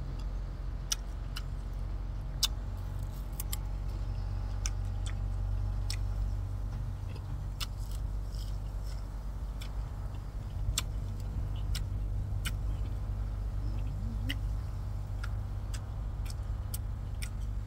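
A person eating fresh leafy herbs and vegetables: scattered sharp crunches and mouth clicks from chewing, over a steady low hum.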